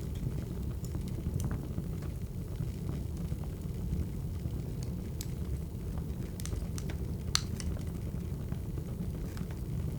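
Wood fire crackling: a steady low rumble with scattered sharp pops, the loudest about seven seconds in.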